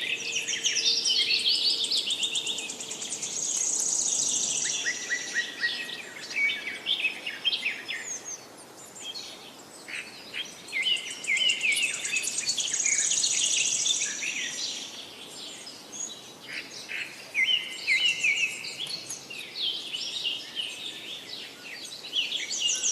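Several songbirds singing and chirping at once in a dense chorus, with fast high trills rising out of it twice and the calls thinning briefly in between.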